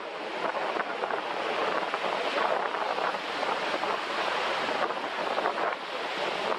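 Surf breaking and washing up a sandy beach, a steady rushing sound, with strong wind blowing across the microphone.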